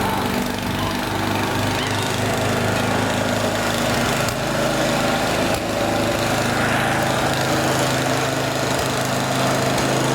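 Snowblower's small engine running steadily, with a hiss of noise over it.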